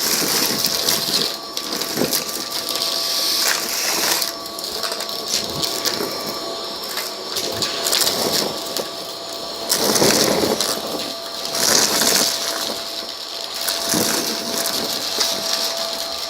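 Vacuum cleaner running with a steady motor whine while it sucks up a scattered debris mix from a rug, the grit crackling and rattling as it goes up the nozzle. The noise swells now and then with the strokes.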